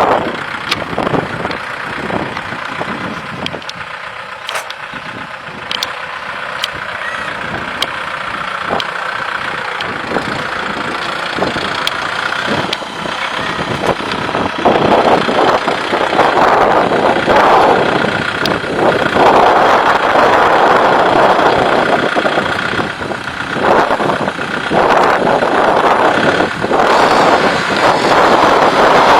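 Kubota 5501 4WD tractor's diesel engine working a two-bottom mouldboard plough, running steadily and getting louder about halfway through.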